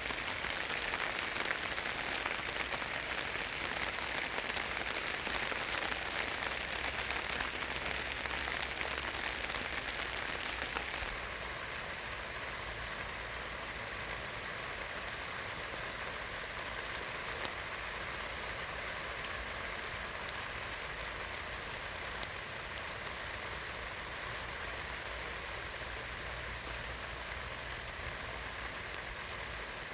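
Rain pattering steadily on a camping tarp. It grows a little lighter about a third of the way through, and two single heavier drops tick sharply later on.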